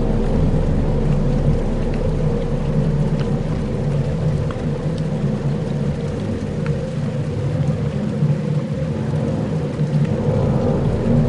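Dark ambient soundscape: a deep, steady rumble like distant thunder under a light rain-like hiss, with a few faint scattered ticks. It eases slightly in the middle and swells again near the end.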